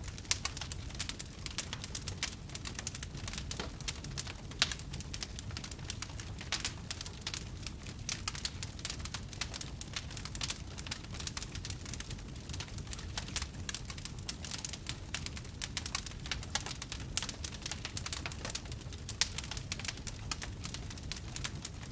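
Wood campfire crackling steadily, with dense small pops and snaps over a low rumble.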